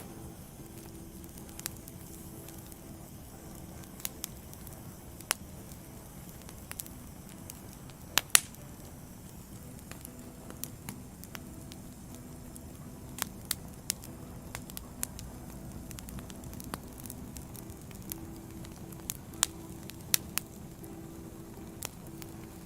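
Wood fire burning with a steady low rumble and irregular sharp crackles and pops from the burning logs. The loudest pop comes about eight seconds in, and several more come close together near the end.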